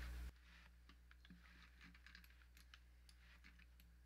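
Faint, irregular clicking and tapping of a computer keyboard and mouse over a low steady hum.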